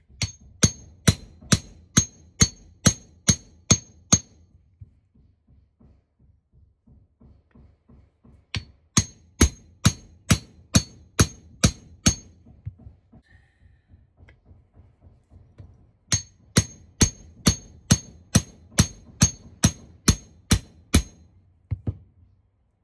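A hammer striking the metal suspension trumpet of a Mark 1 Mini to knock it free of its seized rubber suspension cone. The ringing metallic blows come in three runs of about ten, roughly two a second, with pauses of a few seconds between runs.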